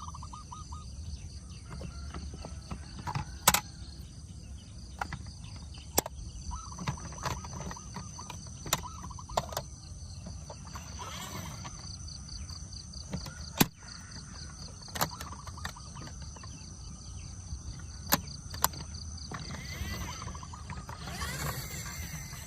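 Scattered sharp clicks and knocks, about ten at uneven intervals, over a steady background with a constant high-pitched hum.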